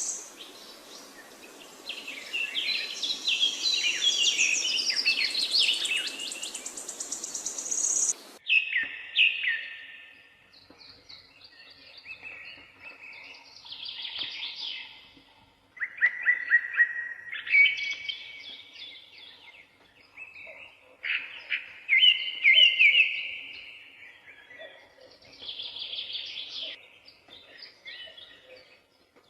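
Small songbirds singing in short, repeated phrases of chirps and trills with brief pauses between. For the first eight seconds a steady high hiss sits under the song and then cuts off abruptly.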